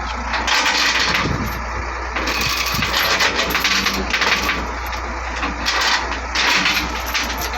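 Caterpillar 966E wheel loader's diesel engine running, its noise swelling in surges several times as it is worked.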